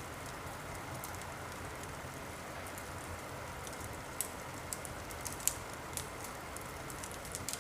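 Wood fire in a fireplace crackling: a steady hiss with sharp pops, several of them in the second half.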